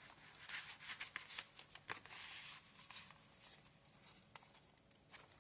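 Paper pages and tags of a handmade journal rustling and handling as it is paged through: soft rustling with scattered light clicks, dying down over the last couple of seconds.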